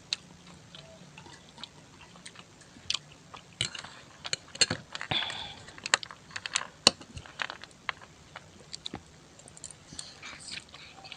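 A person chewing food, with irregular sharp mouth clicks and smacks, busiest in the middle few seconds.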